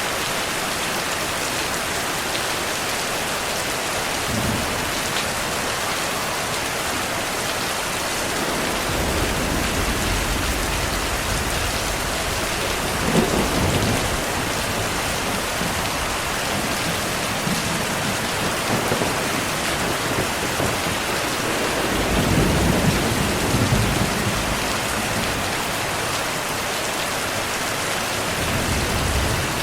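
Heavy, steady rain with rolling thunder: low rumbles come in about a third of the way through and swell loudest twice, near the middle and about three-quarters of the way in, with another near the end.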